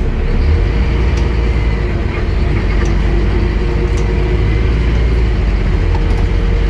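Scania N230UD Enviro 400 double-decker bus's five-cylinder diesel engine running steadily with a deep drone, with a few faint ticks and rattles.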